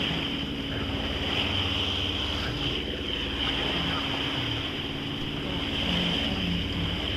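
Sailboat's engine running steadily under way, with water rushing past the hull and wind on the microphone.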